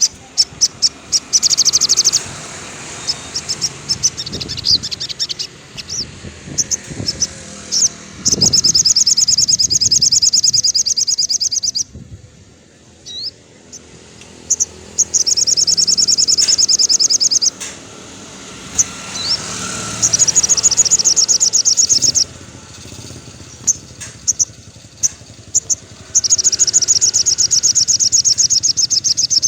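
Sogon bird singing: long bursts of very rapid, high trilling, five of them, each lasting a few seconds, with single sharp chirps in between.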